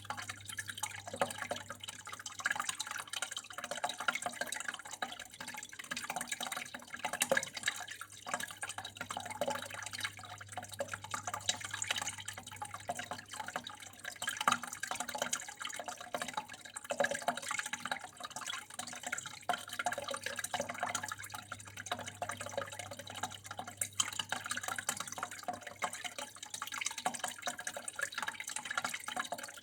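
Water flowing and dripping steadily, a continuous irregular trickle and splash of many small drops.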